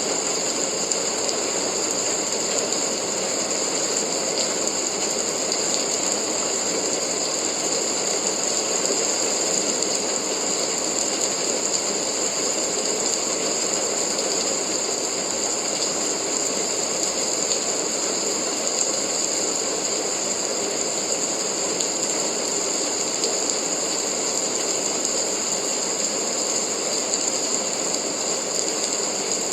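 Steady rain: an even, unbroken hiss of dense patter that neither builds nor fades.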